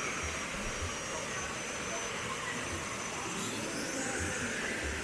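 Waterfall's rushing water, a steady even rush with no change in level.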